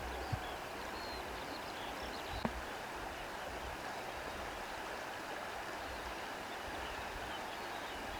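Steady shoreline ambience: sea water and wind rustling through reeds, with two brief faint ticks, the first just after the start and the second about two and a half seconds in.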